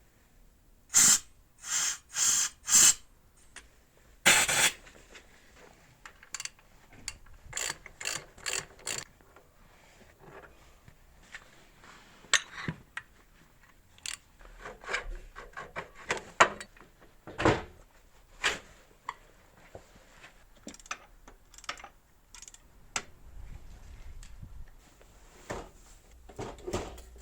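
Hand tools working on metal engine parts: four loud short strokes in quick succession and one longer one in the first few seconds, then scattered sharp clicks and knocks of metal on metal.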